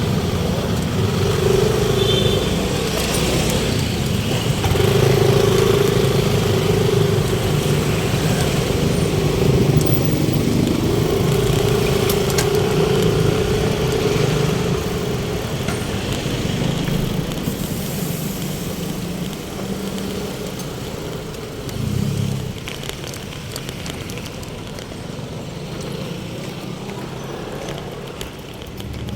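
Road traffic with a motor vehicle's engine running close by, a steady hum that eases off and grows quieter about sixteen seconds in.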